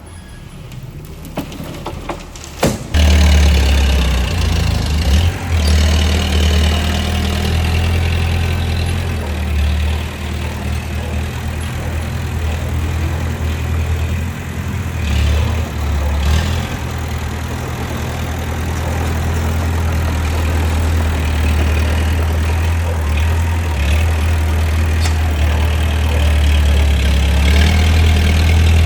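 Bulldozer's diesel engine running steadily with a deep low drone. It comes in loudly about three seconds in, after a few sharp knocks.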